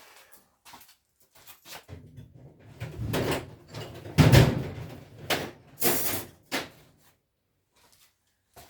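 Clattering knocks of things being handled, with a rumbling slide over a few seconds in the middle and a loud thump a little past four seconds in, then a sharp scrape.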